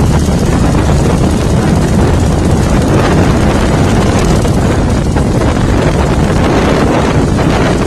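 Bobber motorcycle engine running steadily.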